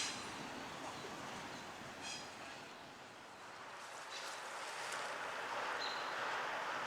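Train rolling along the track at a distance: a steady wheel-and-rail noise with a few faint clicks and a brief squeal. It dips about halfway through and grows louder again near the end.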